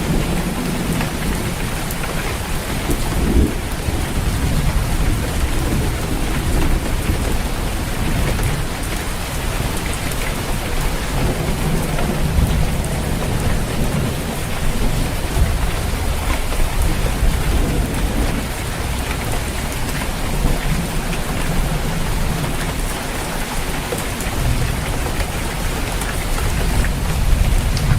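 Steady rain falling on a roof, with low rolling thunder rumbling and swelling underneath.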